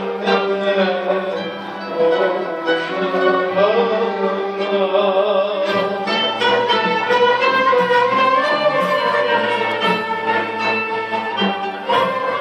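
Instrumental interlude of a Turkish art-music song in makam Hicaz, with bowed strings such as violin carrying the melody over the ensemble.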